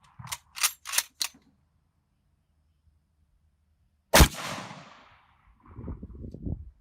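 A custom Mosin-Nagant bolt-action rifle: its bolt worked in four quick clicks in the first second, then a single loud 7.62×54R rifle shot about four seconds in, with a long fading echo. Low handling clunks and rustle follow near the end.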